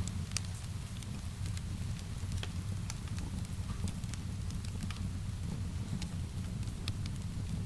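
Wood fire crackling in a fireplace: scattered sharp pops and snaps, several a second, over a steady low rumble, with an even hiss of rain.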